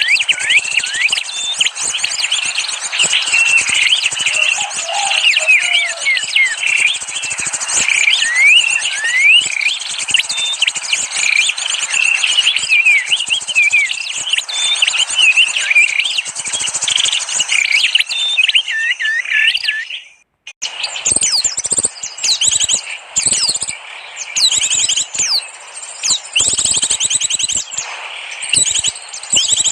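Many small songbirds chirping and twittering together in a dense, high-pitched chorus, played as a bird-trapping lure call. It cuts out suddenly about twenty seconds in and resumes with sparser, sharper chirps.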